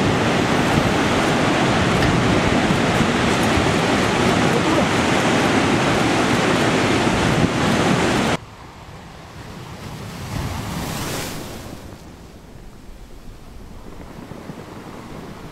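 Big ocean surf, loud and steady with wind on the microphone. It cuts off abruptly about eight seconds in to quieter sea noise, where a wave swells up and breaks between about ten and eleven seconds, then eases.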